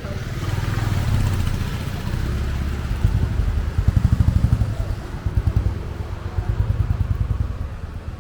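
A motorcycle engine running close by, a low, fast pulsing that grows louder about three seconds in.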